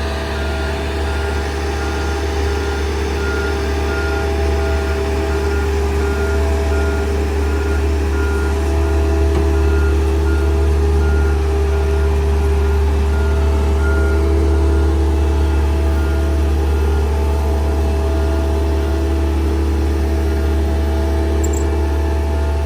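Marine travel lift running steadily with a low engine hum, its warning alarm beeping about three times every two seconds while it moves the boat in its slings.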